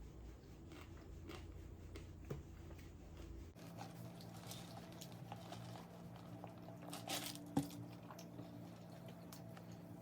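Faint chewing and mouth sounds of someone eating KFC fried chicken, with scattered small crunches and clicks; the loudest is a sharp click about seven and a half seconds in.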